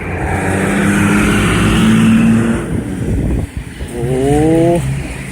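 Motor vehicle engines running on a street, one rising in pitch as it accelerates about four seconds in.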